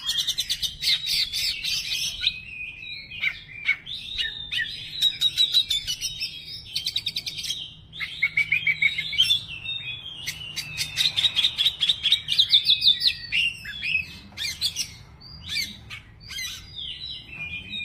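Oriental magpie-robin (kacer) singing a long, varied song of chirps, whistled phrases and rapid trills of fast repeated notes, with brief pauses between phrases. This is its full repertoire of learned and mimicked phrases ('bongkar materi').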